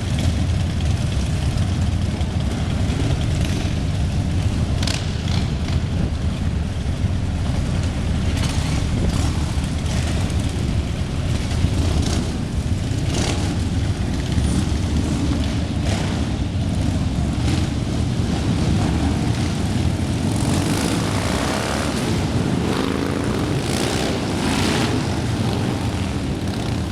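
A long procession of motorcycles riding past, their engines running in a continuous low rumble, with several louder bikes sweeping by about twenty seconds in.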